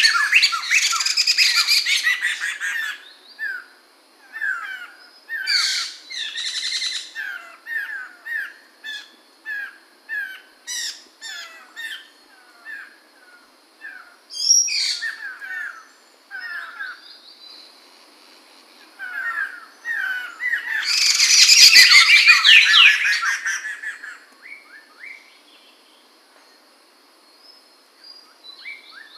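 Poksay mantel (a laughingthrush) singing: a loud rush of tangled song, then a run of separate short whistled notes, then a second loud chattering burst about two-thirds of the way in. A faint steady high-pitched tone runs beneath the second half.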